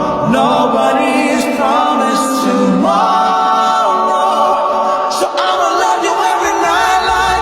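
A song with layered sung vocals, the bass and beat mostly dropped out so the voices stand nearly alone.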